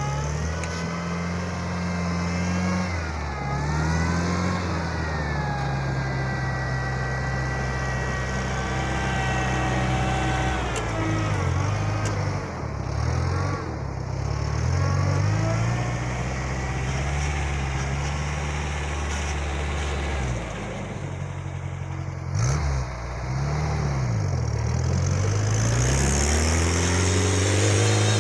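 Homemade mini-tractor's engine running under varying load, its speed repeatedly sagging and picking back up, twice dropping sharply about halfway through and again later before recovering.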